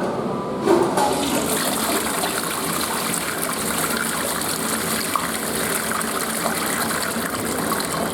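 Western-style toilet flushing: a short knock under a second in as the flush starts, then water rushing steadily into the bowl.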